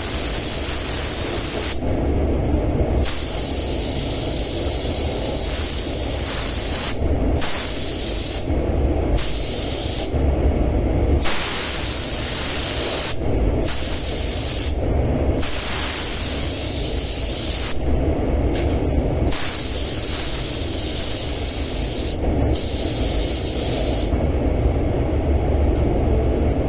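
Compressed-air paint spray gun hissing in repeated passes, the trigger released for a moment between them, about ten times in all, over a steady low rumble.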